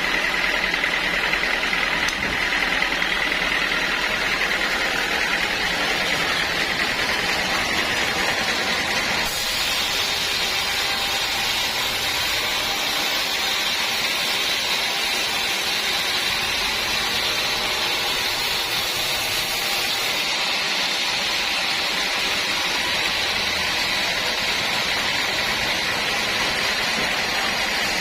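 Sawmill saw running steadily, with a high whine that shifts higher about nine seconds in and stays there, typical of the blade cutting through a teak log.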